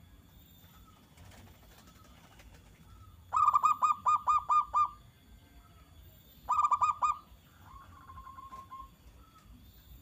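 Zebra dove (perkutut) cooing: a quick run of about eight staccato notes about a third of the way in, a shorter run of about five notes past the middle, then a fainter run near the end.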